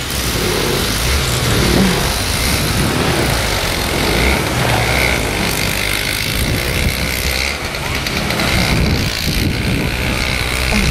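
Steady rumble of wind on the microphone over the running of a snowblower's small engine.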